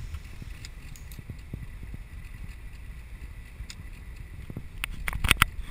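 Car interior road noise while driving on a snowy road: a steady low rumble with scattered light knocks, and a quick cluster of sharper clicks about five seconds in.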